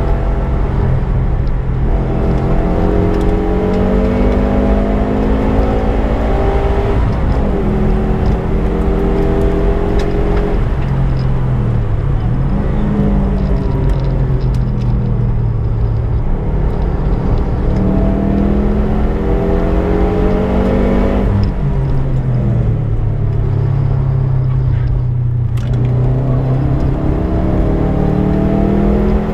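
Subaru Impreza's flat-four engine driven hard on track. The revs climb again and again, each time falling back sharply at a gear change or a lift, about four times.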